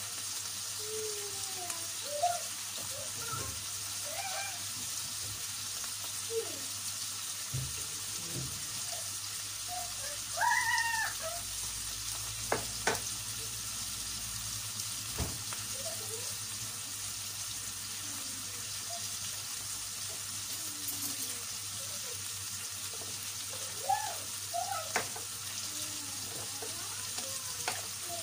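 Beef and vegetables sizzling steadily in a stainless steel pan on a gas burner. Over it come a few short faint voice-like sounds, the loudest about a third of the way in, and a few sharp clicks.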